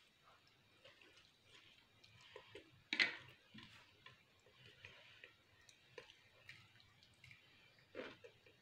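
Close-miked eating sounds: a person chewing a mouthful of fusilli pasta, with scattered small clicks and mouth noises, a louder click about three seconds in and another near the end.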